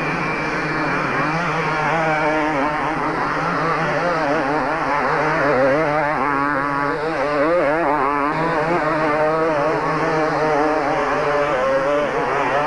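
Several two-stroke motocross bikes racing at once, their engines revving up and down in a quick wavering pattern as the riders work the throttle around the track.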